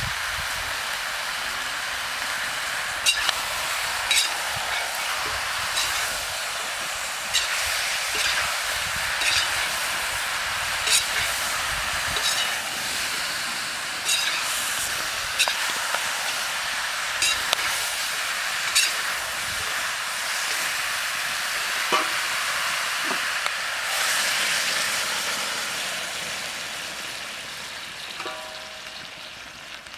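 Country chicken pieces sizzling as they fry in their own fat in a pot, with a steady hiss and a spoon or ladle knocking against the pot every second or so as it is stirred. The sizzle dies down over the last few seconds.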